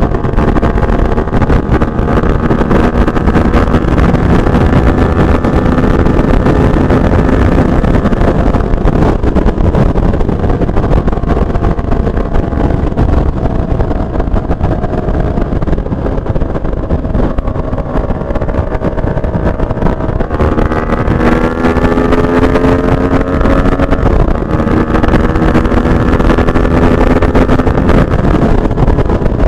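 Benelli TNT 600i's inline-four engine running through a Two Brothers aftermarket exhaust while riding at speed, under heavy wind rush on the microphone. The engine note holds fairly steady and sags slowly, then jumps up in pitch about twenty seconds in as the revs rise.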